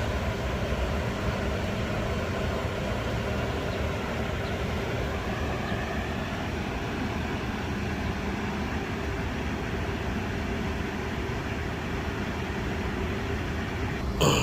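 Steady mechanical hum with a faint low drone, from a running machine.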